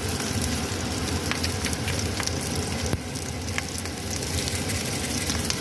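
Fried chicken pieces and mushrooms sizzling in hot oil in a pan: a steady sizzle with scattered small pops.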